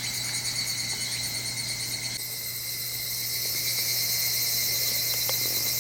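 Insects chirring in a dense, high-pitched chorus, growing louder about two seconds in.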